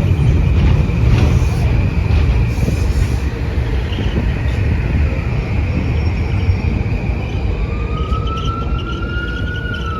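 Metro-North train rumbling steadily through the station, easing off slowly, with a thin steady whine early on. About eight seconds in, an emergency vehicle siren starts up, rising slowly in pitch over the rumble.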